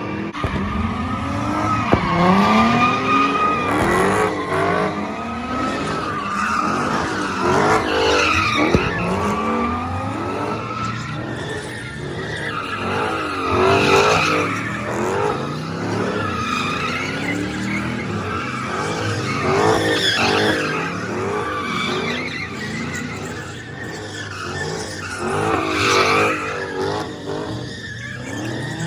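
Cars drifting: engines revving up and falling back again and again, over tyre skidding and squeal, with loud surges every few seconds.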